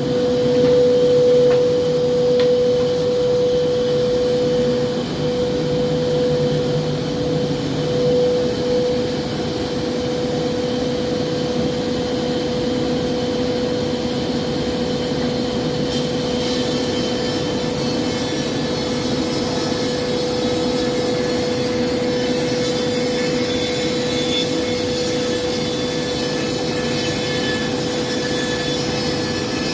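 Woodworking power saw running steadily with a constant hum. About halfway through, a higher squealing set of tones joins in.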